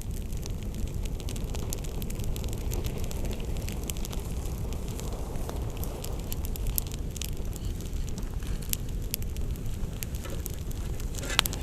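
Campfire burning: a steady low rumble of flame with scattered sharp crackles and pops from the burning wood, one louder pop near the end.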